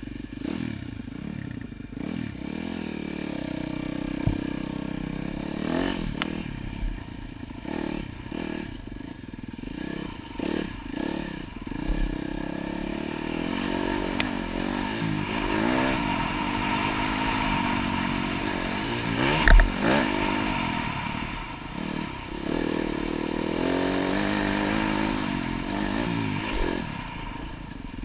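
Dirt bike engine revving up and falling back again and again as it is ridden around a motocross track, with clattering and several sharp knocks; a loud thump comes about two-thirds of the way through.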